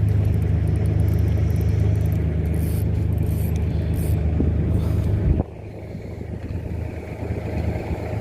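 A boat's engine running with a steady, low hum that drops away abruptly about five seconds in, leaving a quieter background noise.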